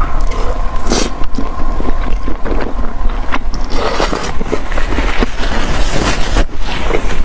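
Close-miked chewing and crunching of fried skewers and chicken skin: irregular crackly bites and chews over a steady low hum.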